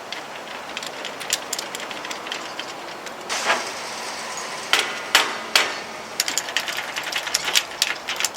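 Metal tools and a key working at a lock that the key won't open: a run of light clicks, taps and scrapes, with several sharper knocks about three and a half to five and a half seconds in.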